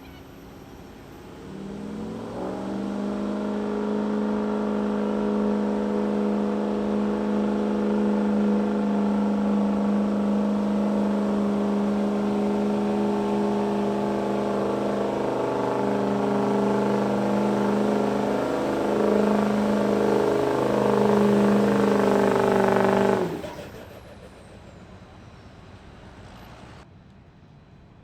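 Street-class diesel pickup truck engine at full throttle pulling a weight sled. It rises in pitch over the first couple of seconds, then holds a steady, loud pull for about twenty seconds. Near the end it cuts off abruptly as the truck comes off the throttle at the end of the pull.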